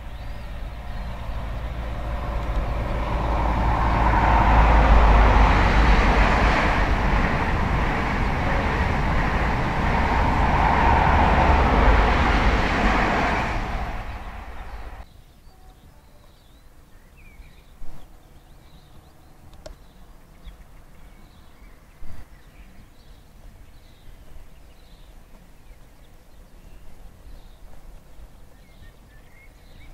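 An LNER High Speed Train with a class 43 diesel power car passing close at speed: engine and wheel-on-rail noise builds to a loud, steady rush, then cuts off abruptly about halfway through. After that, a much quieter open-air background with faint high chirps and two short knocks.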